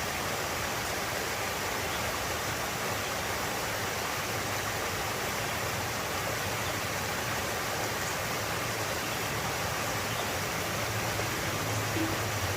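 Steady rush of flowing water, an even hiss that holds without change.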